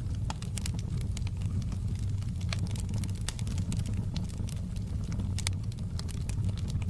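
Wood fire burning in a fireplace: irregular crackles and sharp pops of burning wood over a steady low rumble of the flames.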